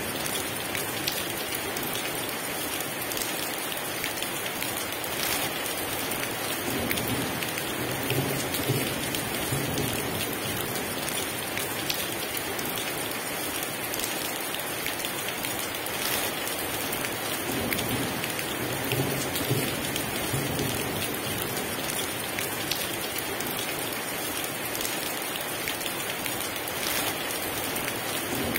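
Heavy rain pouring steadily, with patter of drops on a surface. Low rumbles of distant thunder swell and fade a few times underneath.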